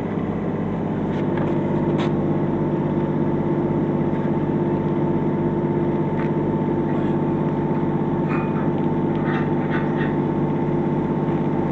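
Engine-driven welder running steadily, with a few faint short crackles in the second half.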